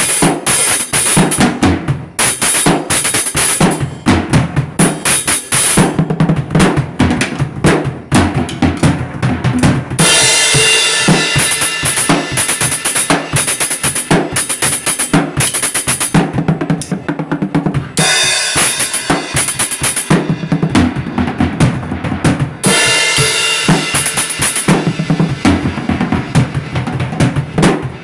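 A drum kit playing fast, dense kick and snare hits, with stretches of cymbal wash over them.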